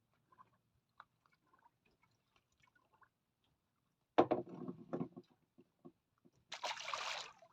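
Handling noise aboard a small fishing boat: faint ticks, then a sudden loud knock and clatter about four seconds in, and a short burst of splashing water near the end.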